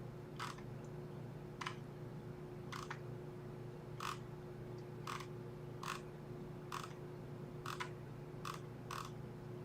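Faint computer mouse clicking, about eleven sharp clicks at uneven intervals of roughly one a second, over a steady low electrical hum.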